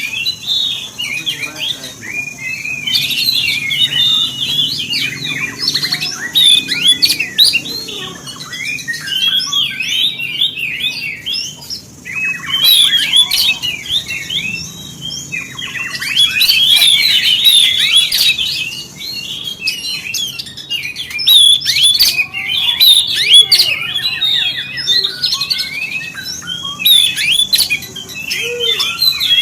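Oriental magpie-robin (kacer) singing a fast, varied song of chirps, whistles and warbles in repeated bursts with short pauses.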